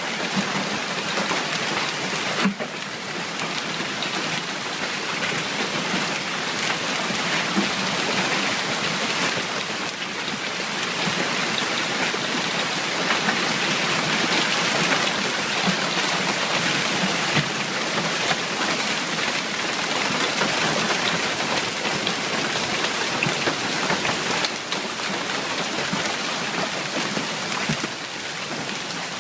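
Heavy rain pouring down: a dense, steady hiss with scattered drop ticks.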